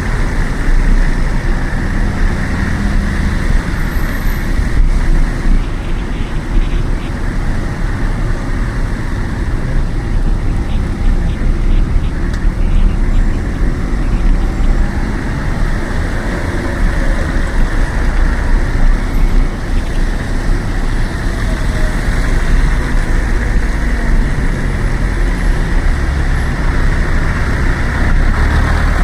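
Steady road and traffic noise heard while cycling, with rumbling wind on the action camera's microphone and motor vehicles running nearby.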